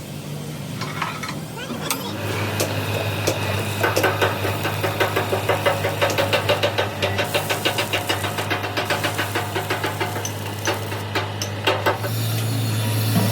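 A steady machine hum, with a fast, even rattling of about four beats a second from about four to ten seconds in.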